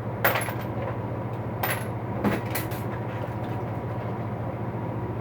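Tools clanking against metal as a socket is worked loose and pulled from a toolbox: several sharp clanks in the first three seconds. A steady low electrical hum runs underneath.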